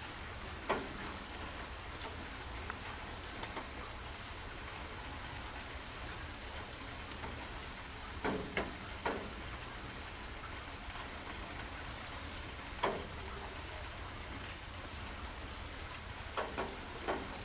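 Steady rain falling, with a few louder sharp drips now and then: one near the start, a cluster of three in the middle, one later, and two near the end.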